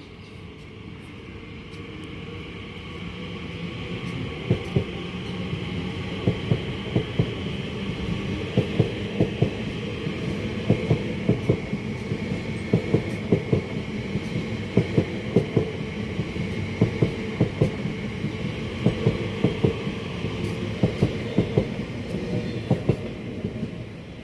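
A train passing on the line, its rumble building over the first few seconds. From about four seconds in, the wheels click over the rail joints in quick repeating groups, clickety-clack, until the sound drops away at the end.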